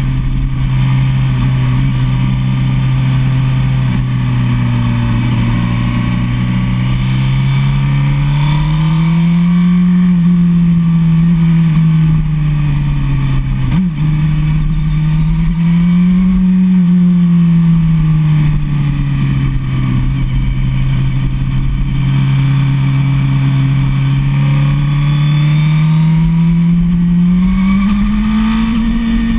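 Sportbike's inline-four engine cruising at steady highway speed under a haze of wind rush. Its note rises and settles back three times, about a third of the way in, about halfway and near the end, as the throttle is opened and eased off, with one brief tick about halfway through.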